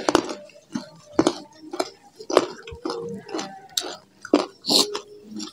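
Close-miked eating sounds: wet chewing with irregular sharp mouth clicks and smacks, a few each second.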